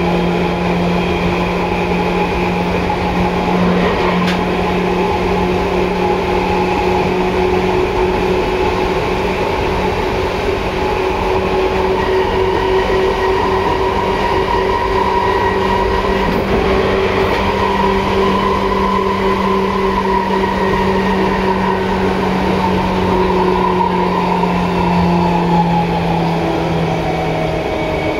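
Seibu 2000 series electric train (set 2033F) running, heard from on board: a steady rumble of wheels on track with a constant low hum that stops near the end.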